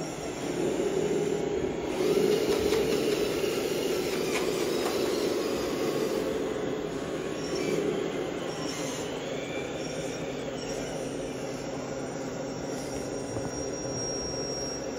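Radio-controlled Tamiya model trucks driving: a steady mechanical drone from their motors and drivetrains, with a thin high whine in the second half.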